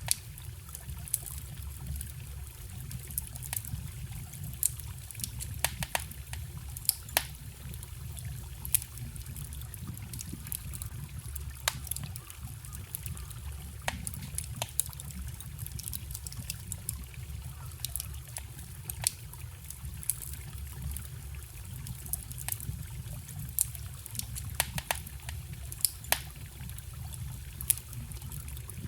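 Wood fire crackling with frequent sharp, irregular pops over the steady low rush of a forest stream.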